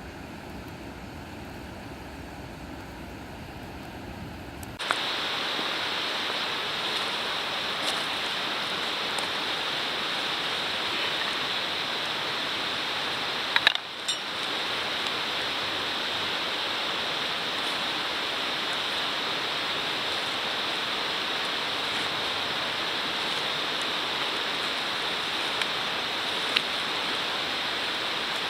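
A steady rushing noise, like running water, with a few faint clicks; about five seconds in it changes suddenly from a low rumble to a brighter, louder hiss.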